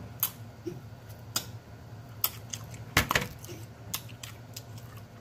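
A person chewing a mouthful of baked ham close to the microphone, with wet mouth smacks and lip clicks coming at irregular moments.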